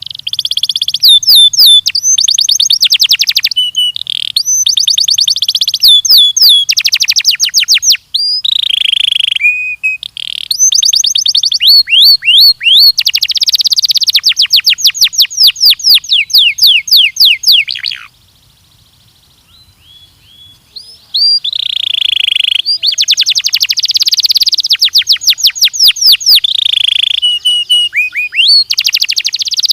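Belgian canary (domestic canary) singing in long phrases of rapid high trills and fast runs of repeated notes. The song breaks off for about three seconds just past the middle, with only a few soft chips, then starts again.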